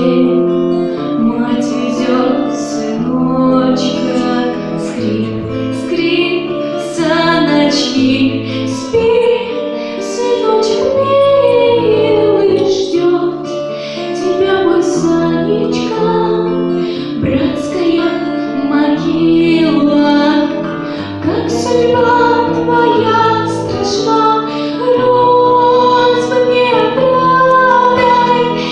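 A children's song: a high voice singing a melody over instrumental accompaniment with a steady bass line.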